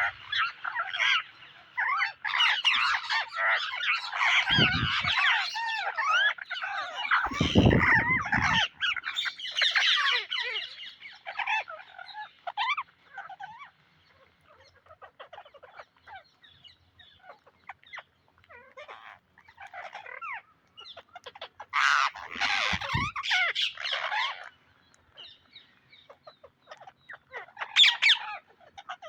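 Psittacula parakeets squawking and screeching in bursts. The calls are dense through the first third, thin out in the middle, and come back loud twice near the end. Low thuds sound twice early on.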